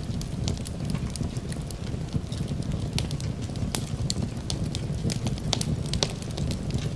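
Fireplace crackling, with frequent sharp irregular pops over a steady low rumble.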